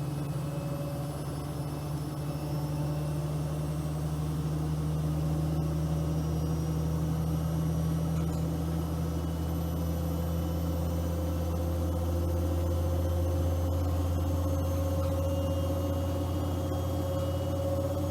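Bosch WFP3231 washing machine running, a steady motor hum with several low tones whose pitch drifts slowly, the lower tone growing stronger partway through.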